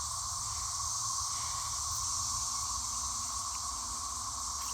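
Chorus of periodical cicadas: a steady, continuous droning buzz from many insects singing at once, with a high hiss above it.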